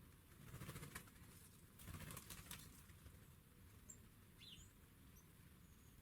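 Two short flurries of bird wingbeats about a second apart, then a few faint, high, short chirps.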